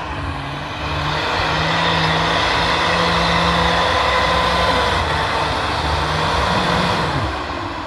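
A truck's engine running close by with a steady hiss over it. The sound swells during the first second or two and eases off near the end.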